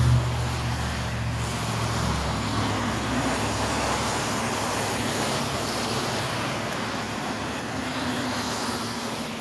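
Road traffic on a wet road: a vehicle's engine hum fades over the first two seconds, then tyre hiss swells and slowly dies away.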